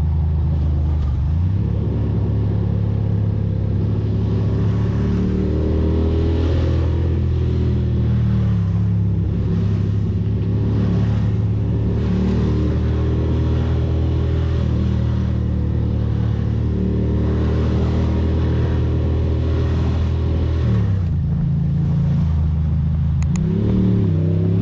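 Ducati Monster's L-twin engine pulling a motorcycle at road speed, its pitch rising and falling several times with throttle and gear changes.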